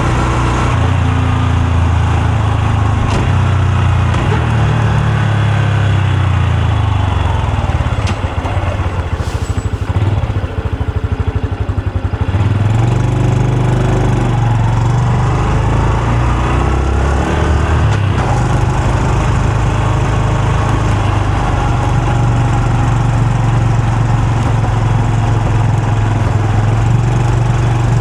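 Honda Super Cub C125's air-cooled single-cylinder engine and exhaust while riding: a steady run, dropping to a quieter, slower beat about ten seconds in, then rising in pitch as it speeds up again and settling into a steady cruise.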